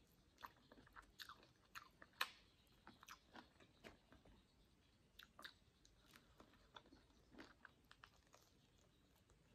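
Faint, close-miked chewing and biting of grilled jerk chicken eaten off the bone by hand: scattered soft, wet mouth clicks and smacks at an irregular pace, the loudest about two seconds in.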